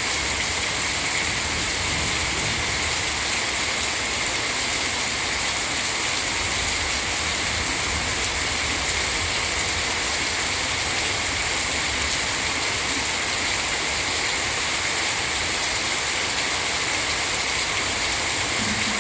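Heavy rain pouring steadily: a dense, even hiss that does not let up.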